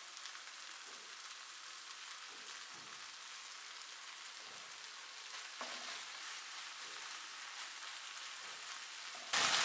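Faint, steady sizzle of diced chicken and onion frying in a non-stick pan, with a few soft scrapes and stirs of a silicone spatula as ketchup is worked through the filling.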